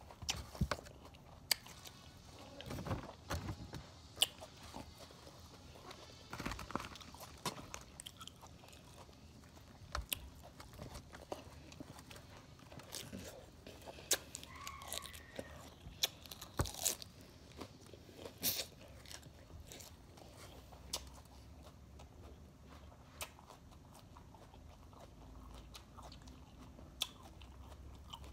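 Close-up chewing and crunching of salad greens, with scattered sharp crunches and clicks at irregular intervals.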